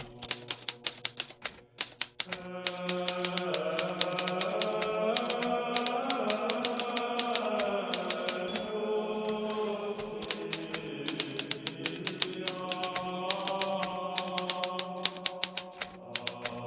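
Hermes Baby portable manual typewriter being typed on in quick, uneven runs of key strikes. About two seconds in, background music with sustained, slowly shifting tones comes in under the typing.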